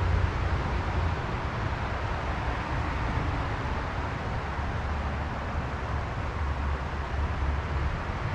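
Steady rush of flowing stream water, an even hiss with a low rumble underneath that rises and falls.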